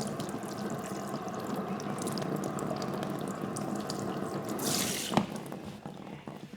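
Running water splashing steadily with small drips and clicks, a brief louder hiss about three-quarters of the way through, then a sharp knock, after which the flow eases off.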